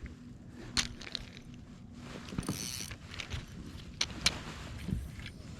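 Fishing gear being handled in a kayak: scattered light clicks and knocks, with a brief hiss about two and a half seconds in.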